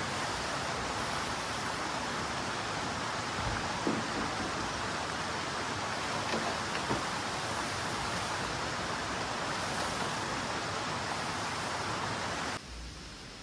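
Heavy rain falling steadily, a dense even hiss with a few faint knocks in it. Near the end it drops suddenly to a much quieter level.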